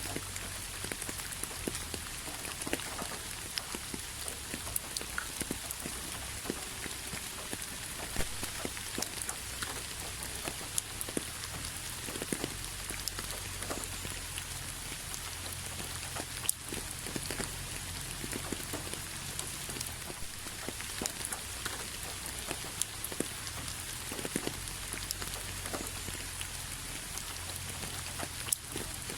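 Steady rain falling, a dense even hiss with many individual drops pattering and ticking on a hard surface, over a faint low rumble.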